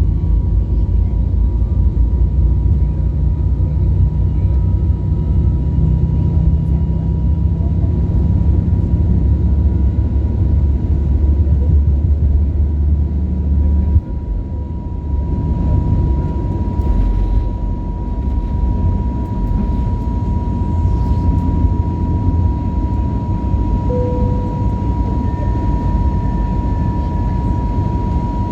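Airbus A321neo cabin noise heard from inside the cabin: a steady low engine and airflow rumble with a constant whining tone over it. The rumble shifts suddenly about halfway through, after which the whine stands out more.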